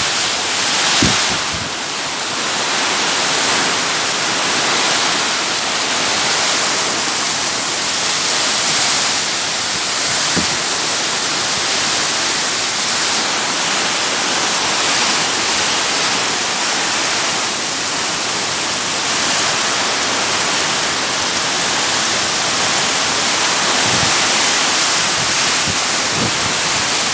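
Heavy rain pouring down in a steady, loud rush, with a few brief low thumps.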